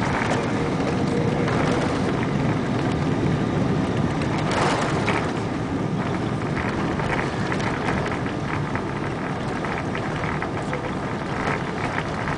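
Cabin noise of a Boeing 777-200ER during landing: a steady, loud mix of engine and airflow noise heard from inside the cabin, briefly louder about four and a half seconds in.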